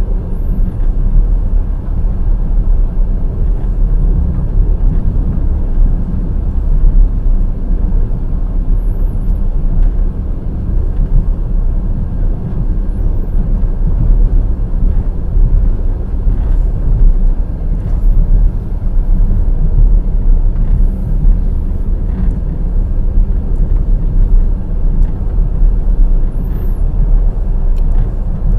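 Wheels of a passenger express train rolling steadily on the rails: a continuous heavy rumble with faint clicks and a few brief high squeaks.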